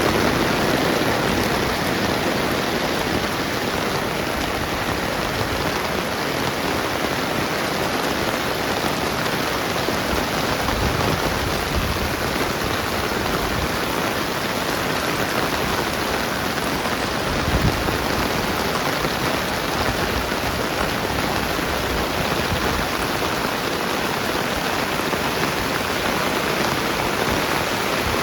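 Steady rain falling on the ground and surrounding surfaces, an even hiss that doesn't let up, with one brief low bump about two-thirds of the way through.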